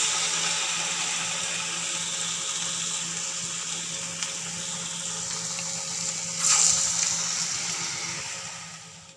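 Urad dal patties deep-frying in hot oil, a steady sizzle. About six and a half seconds in the sizzle surges briefly louder as another flattened piece goes into the oil, then it fades near the end.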